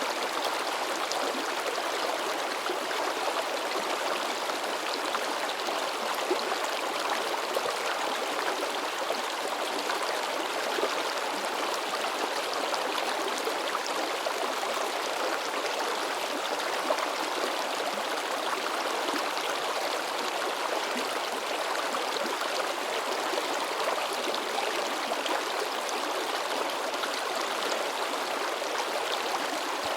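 A shallow river babbling and splashing over rocks in a steady, unbroken rush of water.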